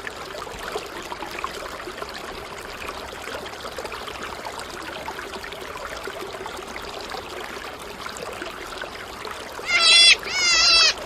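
Water trickling and splashing steadily from a mini water pump spraying a toy tractor. Near the end, two loud high-pitched wavering sounds with falling pitch cut in.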